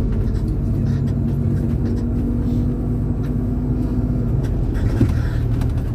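MAZ-203 city bus driving, heard from inside the passenger cabin: a steady low engine and road rumble with a faint steady whine that stops about four seconds in, and scattered light rattles.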